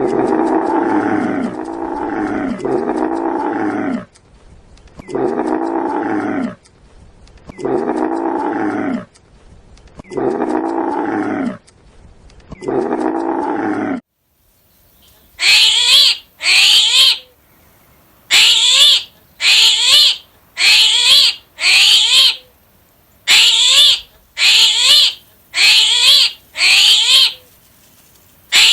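A large animal giving a series of loud, deep calls, each falling in pitch. About halfway through it gives way to a different animal's short, high-pitched calls, repeated about once a second.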